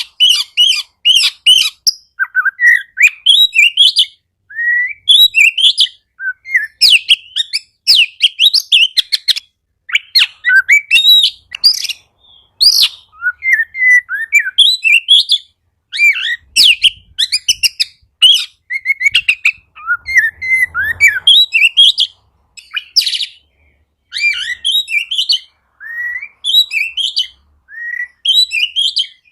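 Oriental magpie-robin (kacer) singing vigorously: rapid runs of varied whistles and sharp chirps in quick phrases, separated by short pauses.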